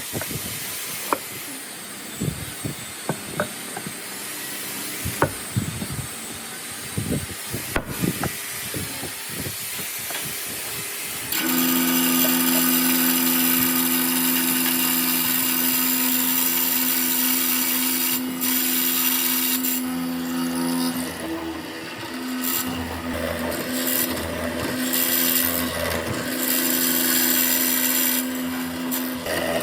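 Irregular knocks and taps of wood being handled. About eleven seconds in, an electric power tool starts abruptly and runs with a steady hum. From about two-thirds of the way through, its sound wavers and surges as it works into the wood.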